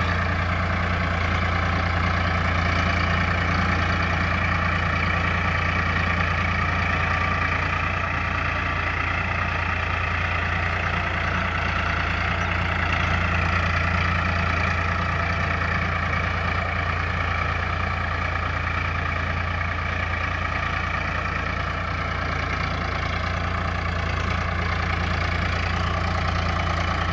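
Farmtrac tractor's diesel engine running steadily at an even speed.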